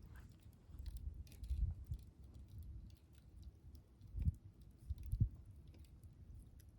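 Wood campfire crackling: scattered small sharp snaps and pops over a low rumble, with a few louder soft thumps.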